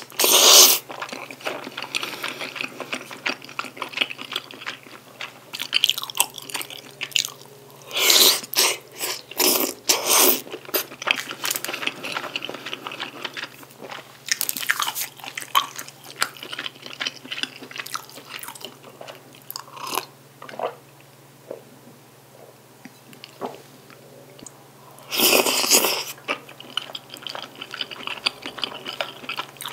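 Close-miked chewing and biting of jjajang tteokbokki (chewy rice cakes, wide glass noodles and bacon in black bean sauce): wet, irregular mouth sounds, with several louder bursts lasting about a second.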